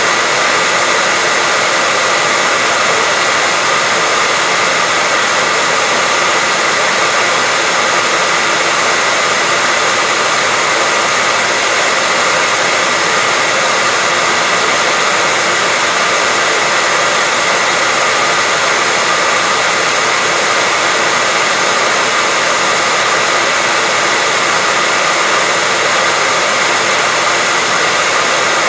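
Hair dryer running steadily on one setting: a continuous even rush of blown air with a faint steady high whine from its motor.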